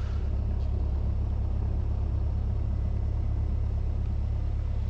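Cessna 172S's four-cylinder Lycoming engine and propeller droning steadily in flight, heard in the cockpit.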